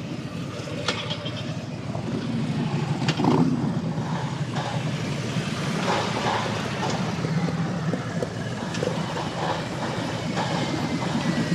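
Road traffic: vehicle engines running steadily, with a few sharp knocks or clicks.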